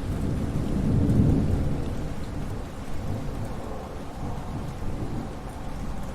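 Thunderstorm: a deep roll of thunder swells to its loudest about a second in and slowly dies away, over steady rain.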